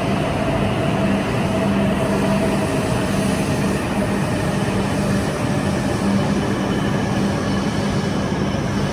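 E5-series Tohoku Shinkansen train running through the station: a steady loud rush of wheels and air, with a faint motor tone that sinks slightly in pitch.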